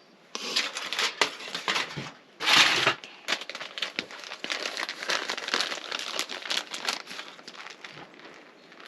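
Plastic food packaging being handled and crinkling in a run of irregular crackles, with one louder rustle about two and a half seconds in.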